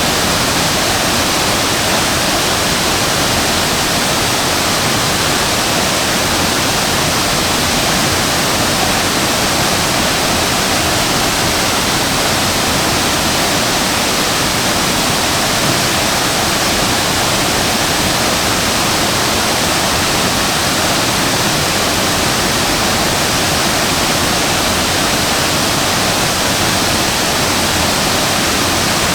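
Waterfall pouring: a loud, steady, unbroken rush of falling water with no change in level.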